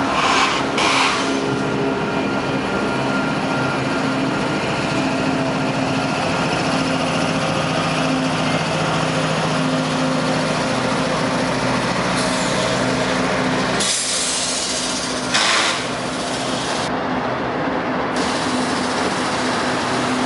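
Union Pacific diesel locomotives and double-stack container cars passing close by: a steady engine hum over rumbling wheel and rail noise, with short bursts of hiss near the start and about fourteen seconds in.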